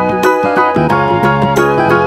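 Background music: a jaunty old-time piano rag in silent-film style, with a steady bouncing beat.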